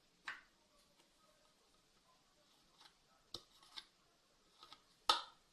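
Faint, scattered clicks and taps of a spoon against a bowl while egg yolks are scooped out of the whites, about five in all, the sharpest about five seconds in.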